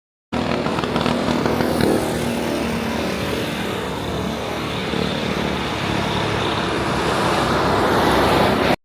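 Heavy truck running on the road: a steady engine and road noise that grows a little louder toward the end. It starts abruptly and cuts off suddenly.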